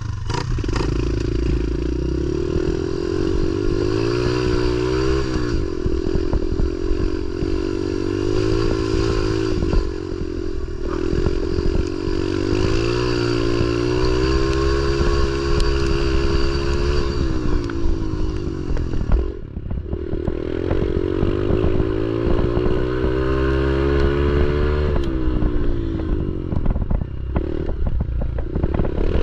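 Pit bike engine revving hard and easing off, its pitch climbing and falling through repeated throttle and gear changes while riding. The throttle shuts briefly about two-thirds of the way through before the engine pulls again.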